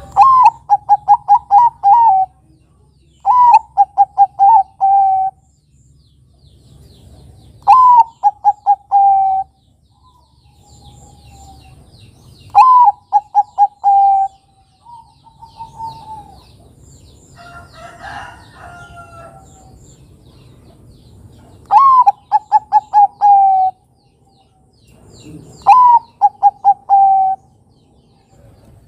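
Zebra dove (perkutut, Bangkok type) singing its cooing song: six phrases a few seconds apart, each a high lead note followed by a quick staccato run of five or six shorter coos. A fainter, rougher bird call comes in about two-thirds of the way through.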